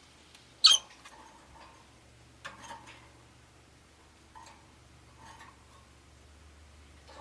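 Rosy-faced lovebirds giving short, sharp, squeaky chirps: one loud call about half a second in, then a few quieter chirps spread through the rest.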